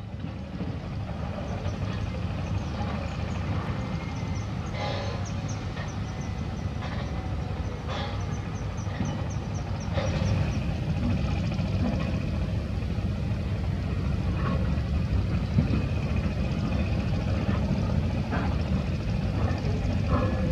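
Diesel engines of heavy construction machinery (excavators and a drilling rig) running steadily, with occasional short knocks. The engine sound gets a little louder about halfway through.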